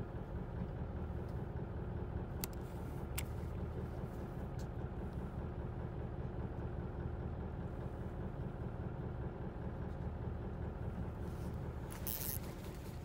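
A fishing boat's engine running steadily, with a couple of sharp clicks early on and a brief rustle near the end.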